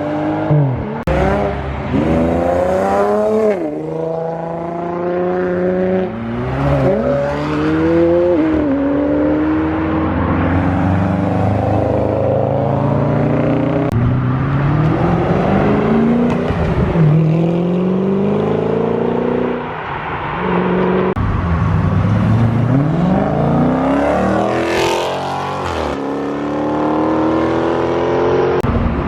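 A string of cars accelerating hard past one after another, engines revving with the pitch climbing repeatedly and then falling away as each car passes.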